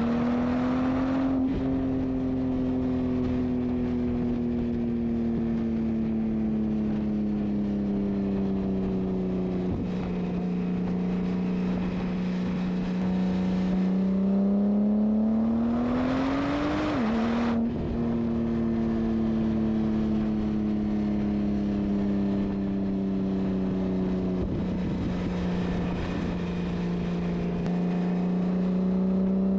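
Porsche Turbo engine through a Fabspeed aftermarket exhaust, running under way at a steady, moderate engine speed. The note sinks slowly, climbs for a few seconds about halfway through, drops abruptly, sinks again, and begins to rise near the end.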